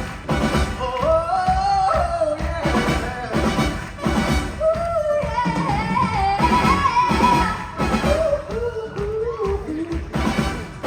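Live pop-rock song with a singer's voice over a band with a steady drum beat.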